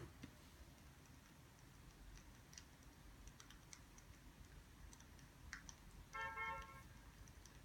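Near silence with faint scattered ticks and clicks, and a short horn-like tone about six seconds in that lasts under a second.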